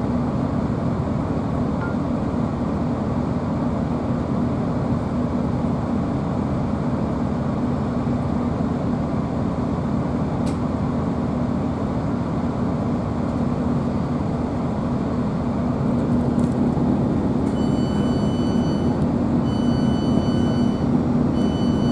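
Cabin noise inside a GWR Class 165 diesel multiple unit: a steady rumble of the underfloor diesel engine and the running gear, with a constant low hum. Near the end a high electronic beep sounds three times in long tones, the door warning as the train stands at South Greenford.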